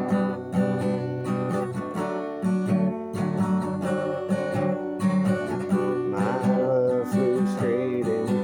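Acoustic guitar, capoed at the second fret, strummed in a steady rhythm.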